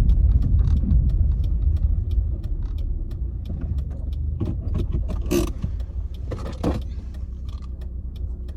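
Car interior sound while driving: steady low road and engine rumble that fades gradually as the car slows, with faint ticking and a couple of brief rattles about halfway through.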